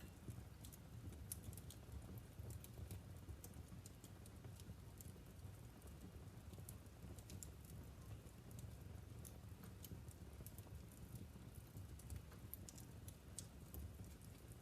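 Wood fire burning in a fireplace, crackling faintly with many small irregular pops over a low steady rumble.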